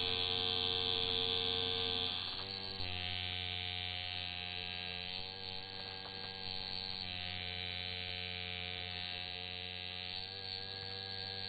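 Electric tattoo machine buzzing steadily, its pitch shifting slightly a couple of times.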